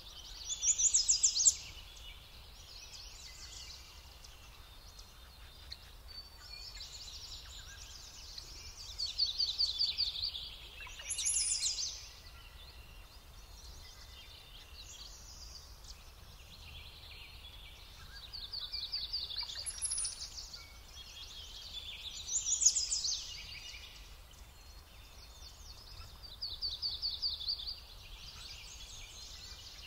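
Songbirds singing outdoors: short, high-pitched song phrases with fast trills, repeated every few seconds and overlapping, over a faint steady low background noise.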